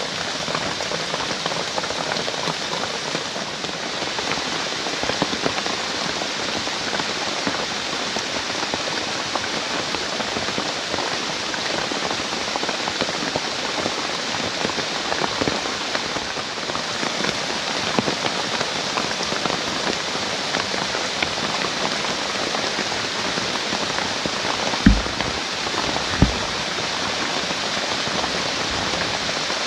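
Heavy rain falling steadily, a dense spatter of drops. Near the end come two short low thumps about a second apart.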